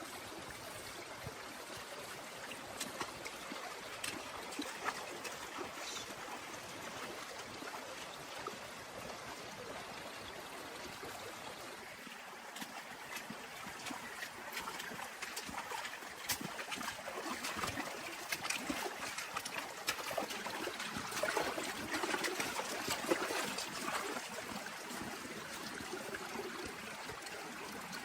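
Water trickling and dripping, with many small ticks and taps of drops throughout that grow busier in the second half.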